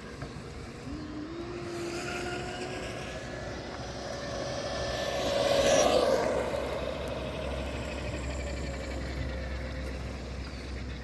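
Electric RC car motor whining as the car drives around, its pitch shifting with throttle; it gets loudest as it passes close about halfway through, then fades with a falling pitch.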